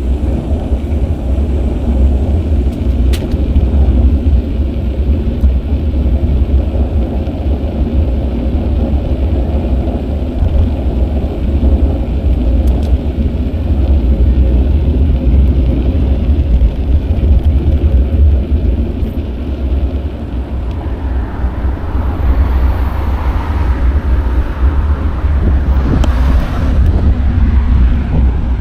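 Wind rumbling on a bicycle-mounted action camera's microphone while riding, with tyre and road noise underneath. A couple of sharp clicks come early on and near the middle, and a louder swell of noise builds a little after twenty seconds in.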